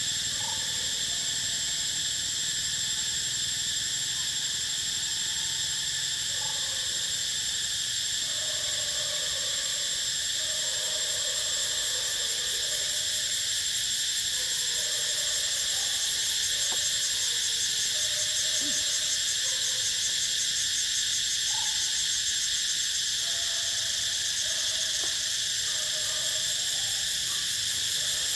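Insect chorus droning steadily at a high pitch, with scattered short calls lower down.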